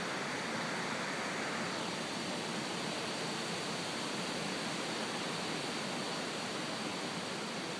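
Strong hurricane wind blowing in a steady rush, easing slightly about two seconds in.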